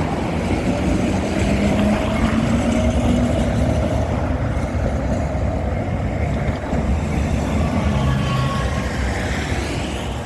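LVS-86K articulated tram running, heard on board: a steady low rumble of wheels on rails, with faint motor tones that rise slightly now and then.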